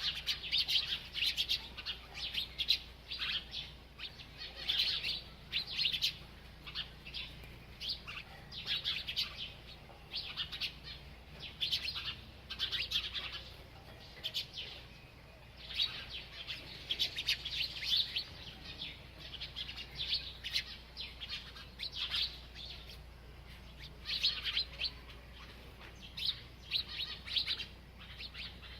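Small bird chirping over and over in quick clusters of short, high chirps, with a brief pause about halfway through.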